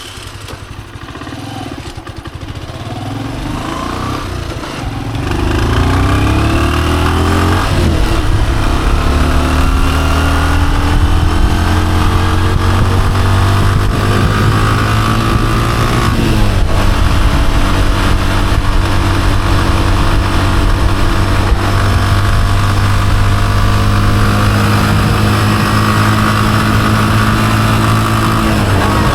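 Honda CG125's single-cylinder four-stroke engine pulling away and accelerating through the gears, its pitch rising in steps over the first several seconds. About halfway through the revs drop briefly and then run on steadily at cruising speed.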